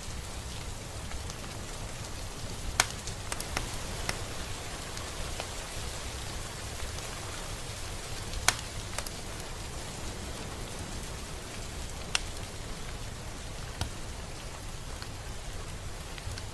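Steady rain falling, with a few single heavier drops landing close by as sharp taps, the loudest about halfway through.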